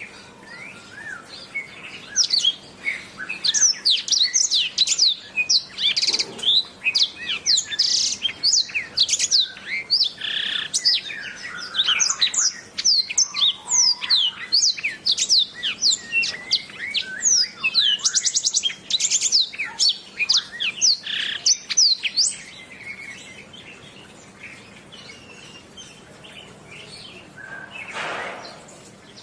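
Domestic canary singing a fast, continuous song of rapid high chirps, trills and whistled sweeps. It thins out about two-thirds of the way through, and a brief harsher, noisy sound comes near the end.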